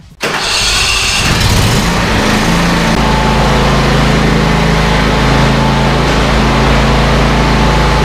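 A motor vehicle engine comes in suddenly, climbs in pitch over the first couple of seconds, then runs steadily at a constant speed.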